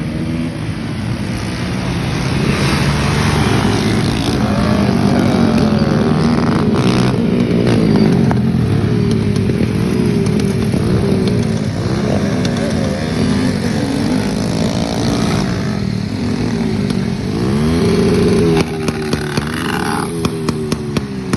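Motocross dirt bike engine running and revving, its pitch rising and falling again and again as the bike is ridden. Near the end a row of short sharp clicks starts, about two a second.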